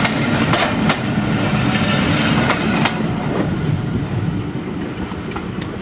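Railway coaches of a steam-hauled passenger train rolling past, their wheels giving a clickety-clack over the rail joints with a rumble underneath. The clicks stop about three seconds in and the rumble fades as the last coach moves away.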